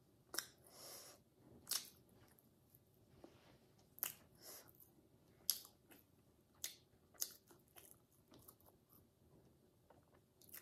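A person chewing a mouthful of food with the mouth closed: soft, wet chewing broken by short, sharp clicks and crunches at irregular intervals of a second or two.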